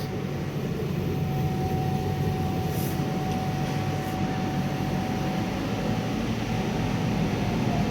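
CO₂ laser cutter running as it cuts felt: a steady mechanical hum with a thin, constant high tone over it.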